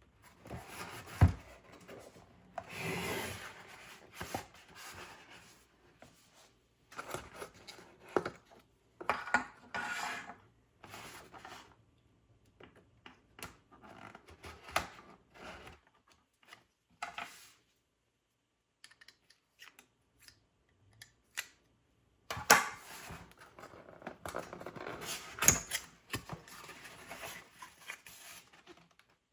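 Hands handling the screen cleaner kit: intermittent rubbing and scraping in bursts, with a few sharp knocks. One knock about a second in is the loudest.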